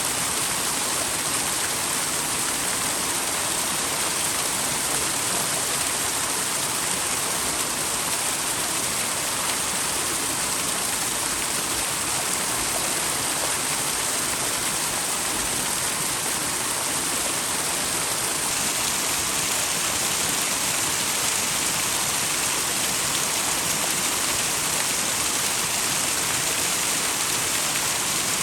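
Small waterfall pouring steadily into a mountain stream, a continuous even rush of falling water.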